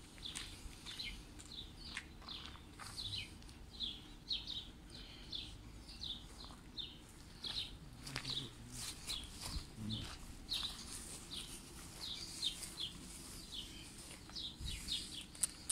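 Small birds chirping: short, high chirps repeating two or three times a second, with no pause.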